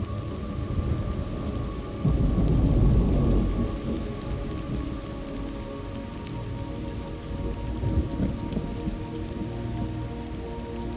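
Thunderstorm ambience: steady rain, with a low roll of thunder that breaks in suddenly about two seconds in and rumbles for about two seconds, and a weaker rumble near the end.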